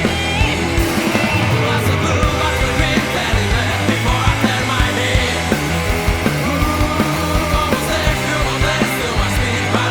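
Grunge rock band playing an instrumental passage with electric guitar, bass guitar and drums, the drums hitting in a steady beat under gliding guitar lines.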